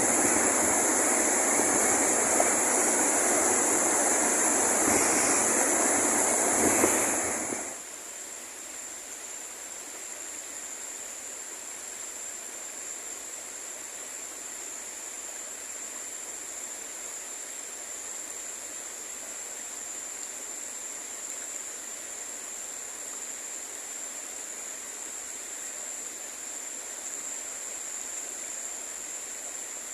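Rushing water, loud and steady. About seven seconds in it drops suddenly to a much fainter steady rush with a thin, high, steady tone above it.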